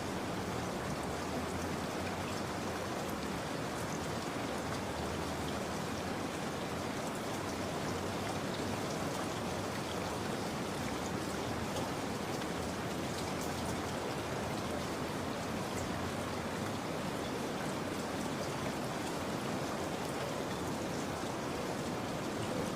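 Steady rain falling, with scattered light drop ticks over an even hiss.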